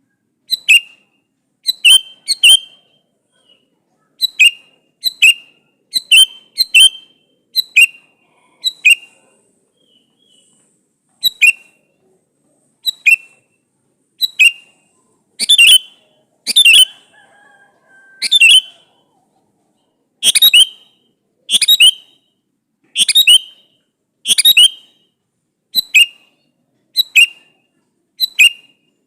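Male sooty-headed bulbul (kutilang) calling: short, sharp notes about once a second, often in quick pairs, with clean silence between them. These are the male's calls to a female, used as a lure to draw replies.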